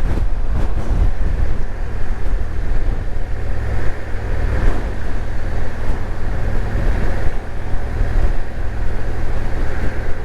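Motorcycle riding along: steady engine and road noise with a heavy low rumble.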